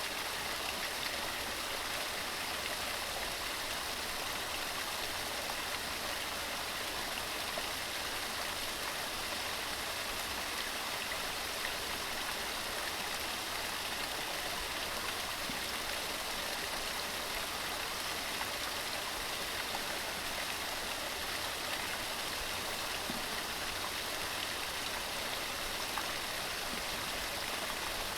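Waterfall: water tumbling over rocks with a steady, even rushing.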